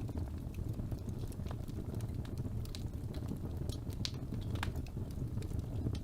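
Wood fire burning in a fireplace: a steady low rumble of flames with irregular crackles and pops, a few sharper pops about four seconds in.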